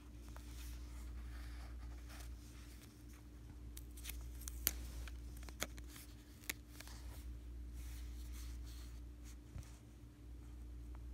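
Stickers being peeled off their backing sheet and pressed onto a paper diary page: soft papery rustling with a few sharp clicks in the middle, over a faint steady low hum.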